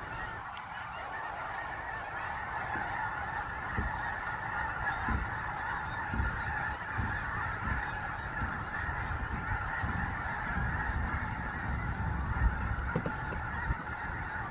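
A huge mixed flock of snow geese and Canada geese calling all at once, a steady, dense din of overlapping honks. A low rumble and a few low thumps run underneath.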